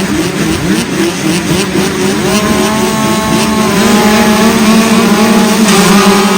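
A pack of small junior motocross bikes (65cc and 85cc, mostly two-stroke) revving together. Their pitches rise and fall, then from about two seconds in several engines hold a steady high pitch.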